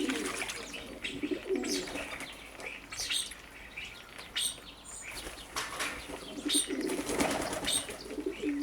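White doves cooing and flapping their wings while bathing in a bird bath. Short high chirps from other birds come in several times.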